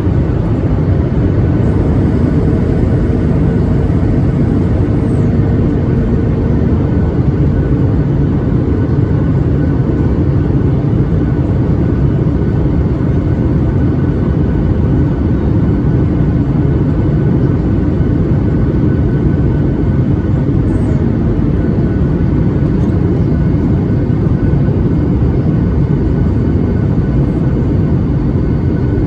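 Steady cabin roar inside a Boeing 737 MAX 8 in flight: airflow and the CFM LEAP-1B engines heard from a seat over the wing, with a faint steady whine above the rumble.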